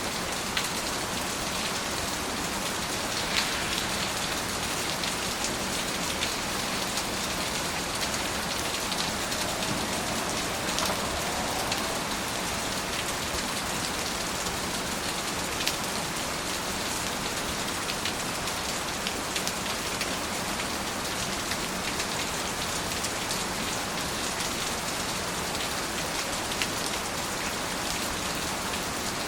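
Steady rain falling, a continuous hiss with scattered close drops pattering.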